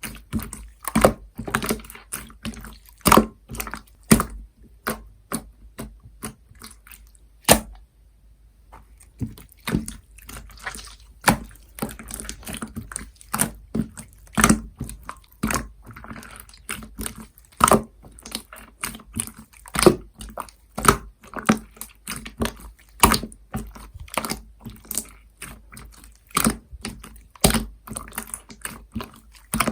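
Clear, syrupy slime being squished and pressed by hand, giving irregular wet, sticky clicks and pops about once or twice a second, with a brief pause about eight seconds in.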